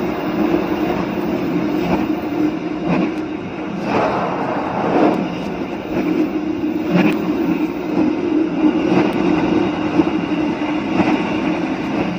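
Train running along the track: a steady rumble of wheels on rails, with scattered short clacks as the wheels pass rail joints.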